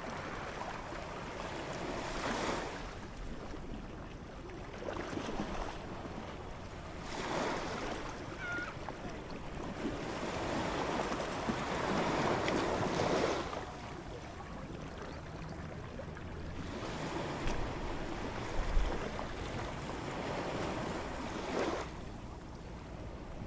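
Ocean waves washing in and drawing back, a rushing surf noise that swells and fades every few seconds, with some wind buffeting the microphone.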